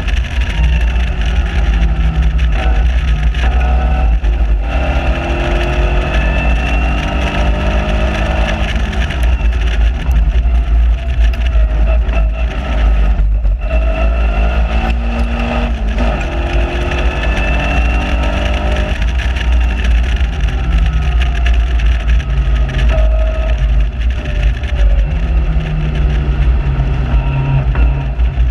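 Onboard sound of a lightweight open-cockpit Seven-style sports car's engine under hard track driving, its pitch climbing through the gears and dropping off for corners, with a brief break in the engine note about 13 seconds in. A heavy wind rumble on the microphone runs underneath.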